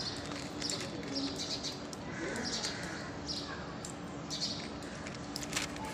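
A bird calling with a short high chirp, again and again about once a second, over a steady low hum.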